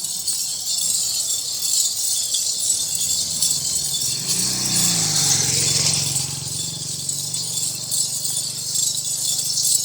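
Small bells jingling continuously, as worn by Nachi goats on the walk, with a low drawn-out sound swelling and fading about halfway through.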